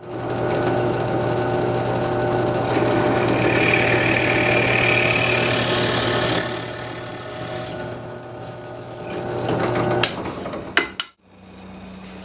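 A woodworking power tool's motor starts up running with a steady hum. About two to six seconds in, a louder rushing noise of it working wood sits over the hum. The motor cuts off about ten seconds in, followed by a few sharp knocks.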